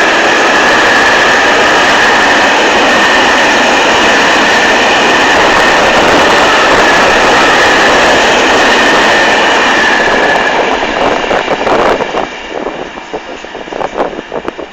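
Grain freight train rolling past close by: a loud steady rumble with a steady high-pitched squeal on top. About ten seconds in, the sound fades away and gives way to wind gusting on the microphone.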